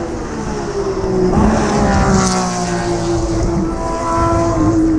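Le Mans endurance race cars passing on the track, the engine note swelling loud about a second and a half in and then sliding gradually down in pitch as the cars go by.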